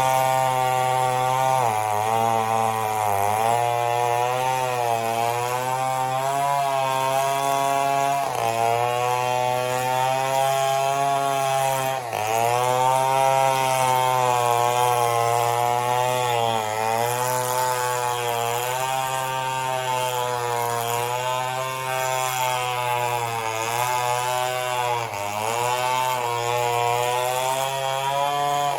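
Two-stroke chainsaw running at high revs and cutting through mahogany wood. The engine pitch sags several times as the chain bites under load, then picks back up.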